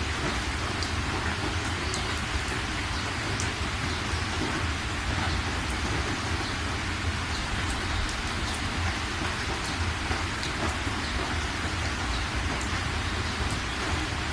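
Steady rain falling, a dense even hiss with many small drop ticks, over a continuous low rumble.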